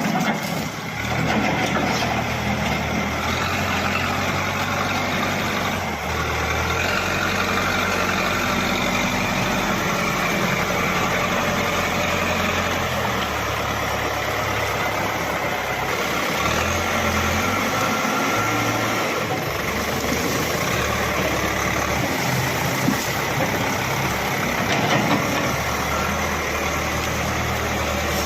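Caterpillar 424B backhoe loader's diesel engine running steadily under work, its pitch stepping up and down now and then.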